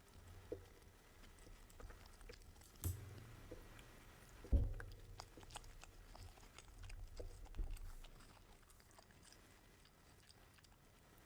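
A person chewing and biting fast food, with small mouth clicks. A sharp click comes about three seconds in and a louder knock about halfway through. The sounds die down in the last few seconds.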